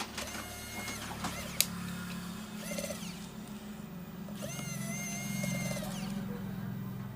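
A small electric motor whirring in short bursts at a steady pitch, starting and stopping a couple of times over a low steady hum, with a single sharp click about a second and a half in.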